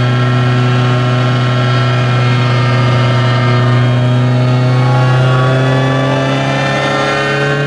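VW Golf Mk1's 2.0-litre 16-valve turbocharged four-cylinder running on a chassis dyno, held at a steady engine speed, with its pitch climbing slowly over the last few seconds.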